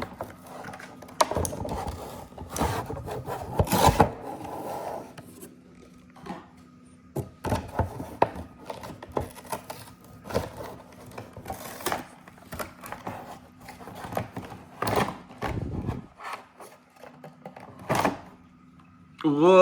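Toy packaging being torn open and handled: irregular rubbing, scraping and rustling with scattered sharp clicks.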